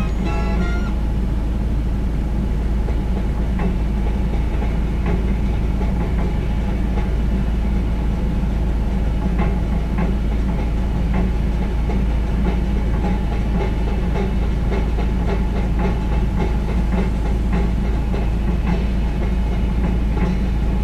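Car engine idling, heard from inside the cabin while stopped in traffic: a steady low rumble with light, irregular ticking.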